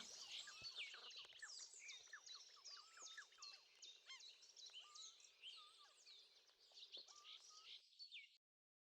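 Faint dawn-chorus-like birdsong: many songbirds chirping and whistling at once with quick rising and falling notes, fading slowly and cutting off about eight seconds in.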